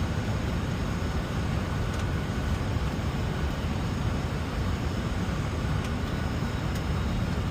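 Steady rushing noise on the flight deck of a Boeing 747-400 on final approach: airflow and engine noise, heaviest in the deep range and even throughout.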